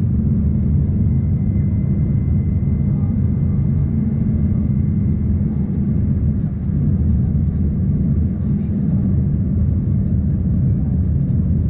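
Steady cabin rumble inside an Embraer ERJ-140 regional jet: engine and airflow noise, deep and unbroken, with a faint high steady whine.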